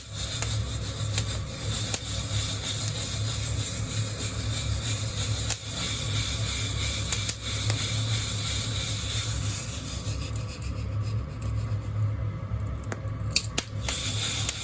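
Coffee beans rustling and scraping against a wire-mesh hand roasting net as it is shaken, with scattered small clicks, over a steady low hum.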